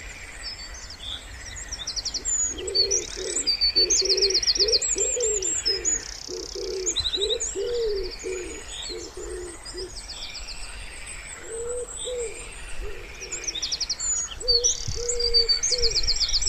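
A wood pigeon cooing in repeated low phrases, over rapid, high-pitched trills and chirps of small songbirds. The cooing runs for several seconds, pauses, and comes back twice near the end.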